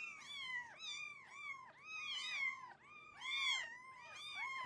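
A cat mewing over and over in short, high-pitched cries, about three a second, each rising and then falling in pitch.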